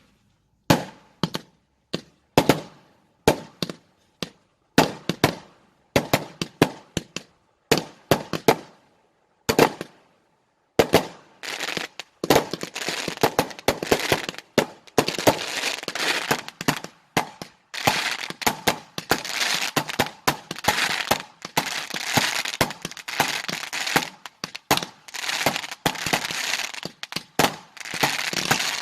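Consumer fireworks going off: a string of single sharp bangs, each with a short crackling tail, for about the first ten seconds, then a dense, continuous crackle packed with rapid bangs.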